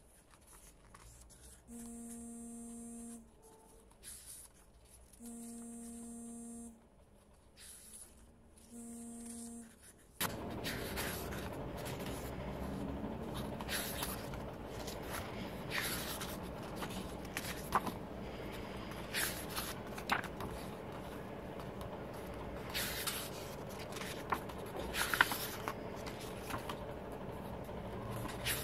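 Scraping and crinkling of packaging being handled, a continuous rustle with many sharp strokes that starts suddenly about ten seconds in. Before it, a low beep-like tone sounds three times, each over a second long, about three and a half seconds apart.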